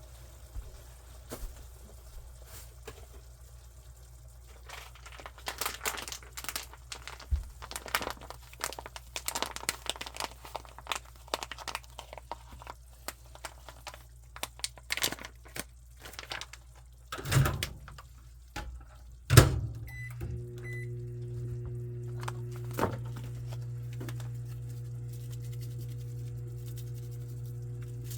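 Kitchen cooking sounds: a utensil scraping and clinking against a pan in quick irregular strokes for several seconds, then a couple of knocks, the second the loudest. After that a steady hum of a running kitchen appliance, with several held tones, sets in and holds.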